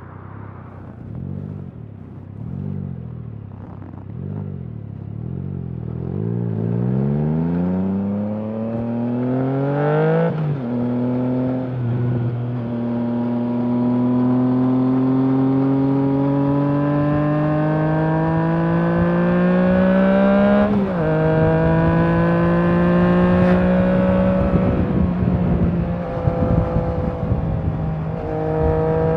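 Triumph Trident 660's inline three-cylinder engine through a Leo Vince aftermarket exhaust. After a few short throttle blips at low revs, it accelerates, the revs climbing steadily with an upshift about ten seconds in and another about twenty seconds in. It then runs steadily, with a brief roll-off of the throttle near the end.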